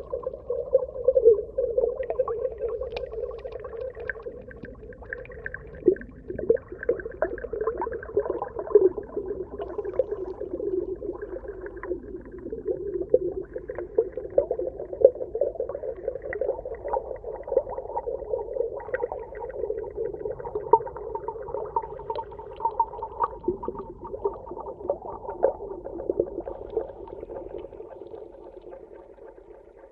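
Underwater ambience: a muffled, continuous wash of sound, densely peppered with small clicks and pops.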